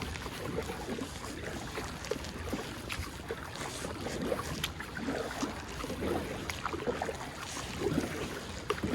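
Water splashing and sloshing around a kayak, with small irregular knocks and drips.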